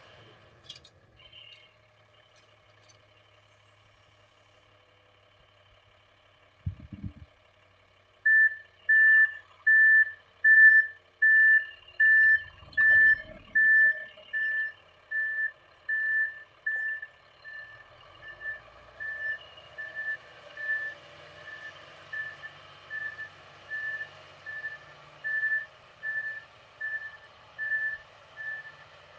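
A vehicle's reversing alarm beeping at one steady pitch, a little more than one beep a second, starting about eight seconds in; loud at first, then fainter and uneven. A single short thump comes just before the beeping starts.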